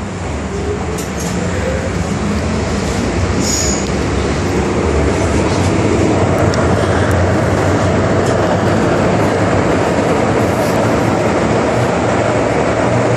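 MTR Island Line metro train pulling away and gathering speed: the running noise builds over the first several seconds, then holds steady at speed, with a low hum beneath.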